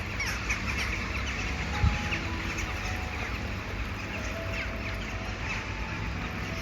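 Many birds chirping rapidly, a dense run of short falling chirps over a steady hiss.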